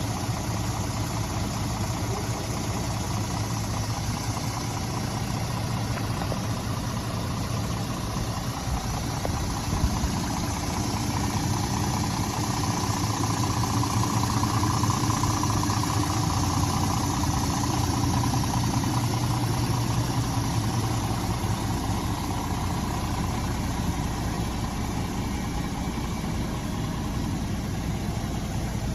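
Scania R450's 13-litre straight-six diesel engine idling steadily, growing a little louder through the middle and easing back toward the end.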